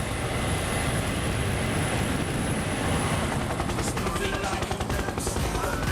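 Aircraft engine sound effect: a steady rushing engine noise, with faint musical tones coming in about four seconds in.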